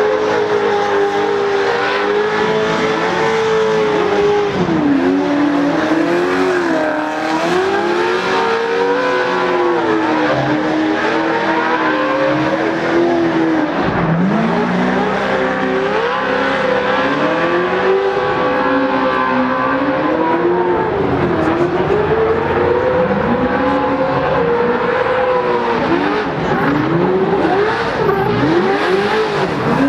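Stadium Super Truck V8 racing engines revving hard, their pitch rising and falling again and again as the trucks accelerate and lift off. Near the end come a string of quick, overlapping revs.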